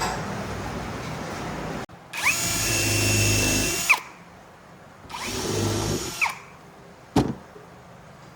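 Handheld electric power tool motor run twice in short bursts, its whine rising to speed and dropping as it stops. The first run lasts about two seconds and the second about one. A sharp knock near the end.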